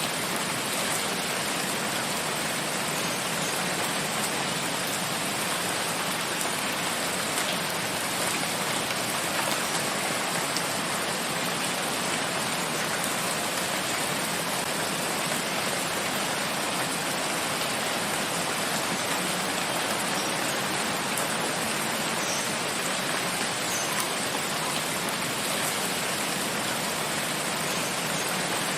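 Steady, even rain falling, an unbroken hiss with faint scattered drops.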